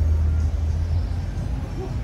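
Car engine rumbling low at idle or slow roll in traffic, the rumble fading out about a second in.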